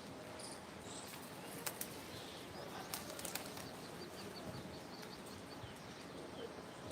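Birds flapping their wings in a few sharp bursts, with a quick run of about ten short, high, evenly spaced chirps in the middle, over a steady background hiss.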